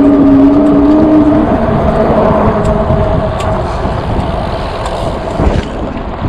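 An Engwe Engine Pro e-bike's electric motor whining steadily under heavy wind and road rush on the microphone while riding. The lower whine drops away about a second and a half in, and the higher one fades near the end.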